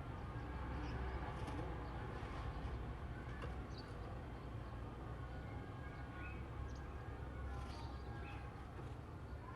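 Oriental magpie-robin (kacer) giving short, scattered chirps and whistled notes, over a steady low rumble.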